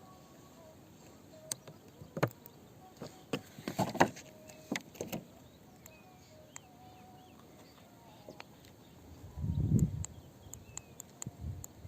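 Scattered sharp knocks and clicks, several close together about four seconds in, then a short low rumble near the end.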